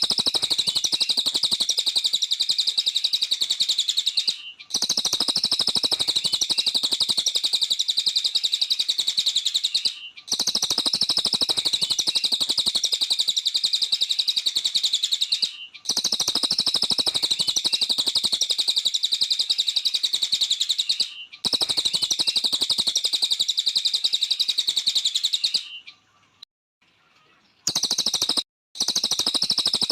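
A cililin songbird singing a rapid, high-pitched twittering song in bouts of about five seconds, each cut by a brief break, with a pause of about two seconds near the end.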